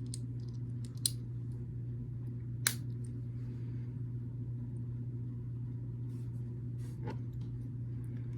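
Plastic building bricks clicking and tapping as pieces are handled and pressed together. There are a few scattered clicks, the sharpest about one and three seconds in, over a steady low hum.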